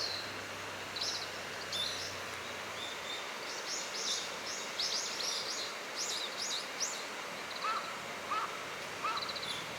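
Small birds calling: many short, high, thin chirps, coming in a quick run in the middle, with three short lower notes near the end, over a steady outdoor hiss.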